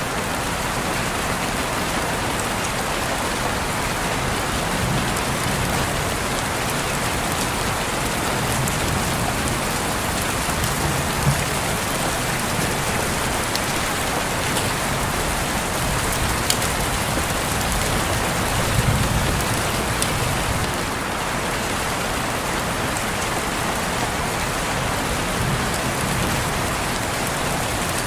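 Steady rain on a window pane, an even hiss of falling rain with a few sharper drop taps standing out now and then.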